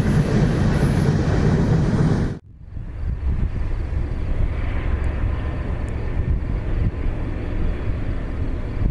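A passing train's wheels rumbling on the rails, cut off suddenly a little over two seconds in, followed by a steadier, quieter low rumble.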